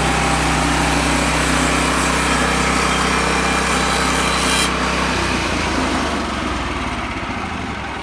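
Sawmill engine running under load as the blade cuts through cedar. About four and a half seconds in, the high cutting hiss stops, and the engine then winds down and gets quieter.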